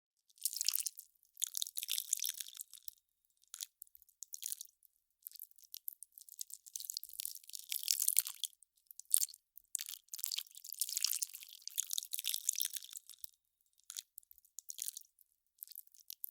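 Melting ice crackling: irregular bursts of sharp, high, dense crackles lasting one to three seconds, with short silent gaps and a few lone ticks between them.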